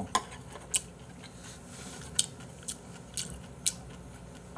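A person chewing a mouthful of seasoned greens close to the microphone: short wet smacking clicks, roughly every half second.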